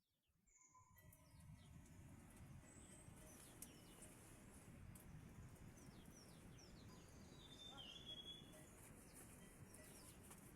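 Faint birds calling: several short chirps, then a longer held call about eight seconds in, over low background noise that fades in at the start.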